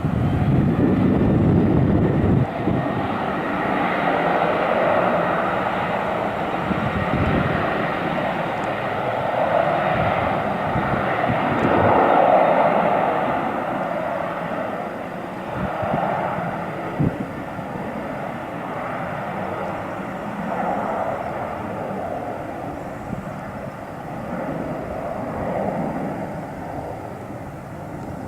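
Airplane engines heard as a steady rushing noise, loud at first and slowly fading as the aircraft moves away, with gusts of wind buffeting the microphone, strongest in the first few seconds.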